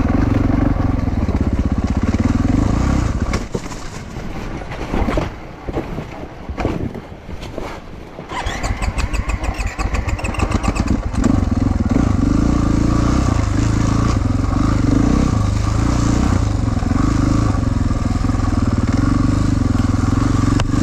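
Four-stroke 450 enduro motorcycle engine running under throttle. About three seconds in it drops back to a quieter, uneven stretch, then revs up with a rising pitch about eight seconds in and runs on steadily.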